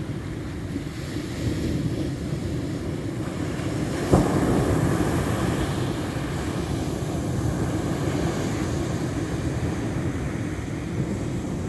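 Ocean waves breaking on a shore in a steady roar of surf, with one wave crashing sharply about four seconds in and washing loudly for a few seconds after.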